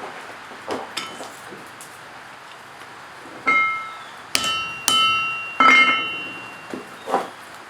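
Hammer strikes on metal at an anvil: a couple of light taps, then four heavier, unevenly spaced blows in the middle, each leaving a clear metallic ring.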